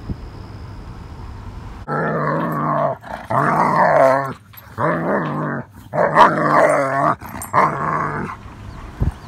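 German shepherd vocalizing in five drawn-out, wavering growl-howls of about a second each, over a low car hum. A short thump comes near the end.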